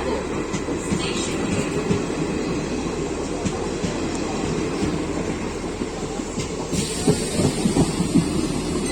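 Passenger train running on the rails, a steady rumble with wheel clatter. A brighter hiss comes in about seven seconds in.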